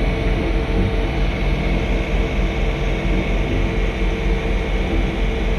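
John Deere 3046R compact tractor's 46-horsepower diesel engine running steadily under load while snow blowing, a constant machine drone with a low pulsing rumble and a couple of steady tones.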